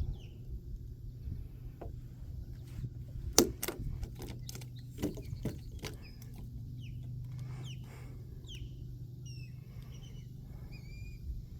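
Small birds chirping in short, downward-sliding calls, more often near the end, over a steady low hum. A few sharp knocks come in the middle, the loudest about three and a half seconds in.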